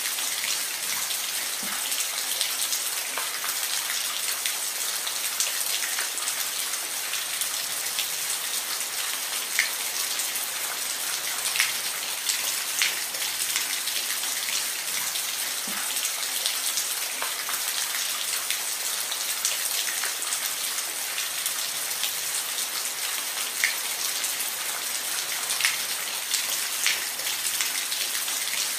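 Steady rain falling, a dense hiss with individual drops ticking close by at irregular moments.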